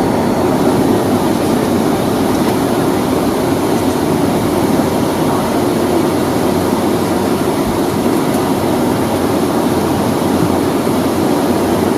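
Steady cabin noise of a Boeing 757-200 with its Rolls-Royce RB211 engines running at low thrust during taxi, heard from inside the cabin as an even, low rumble.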